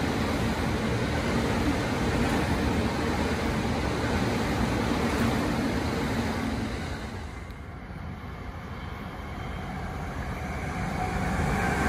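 Electric multiple-unit train running past on the tracks below, its steady running noise fading away about seven seconds in. Near the end the running noise of a second approaching train builds up.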